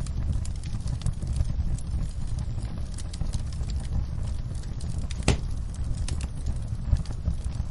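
Campfire burning, with a steady low rumble under frequent small crackles and snaps of burning wood, and one sharper pop about five seconds in.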